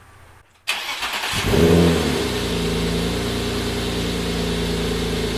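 BMW E34 525i inline-six starting through a freshly built exhaust of a cherry bomb glasspack straight-piped into a fart-can muffler. It cranks under a second in, catches with a brief rising flare, then settles into a steady idle.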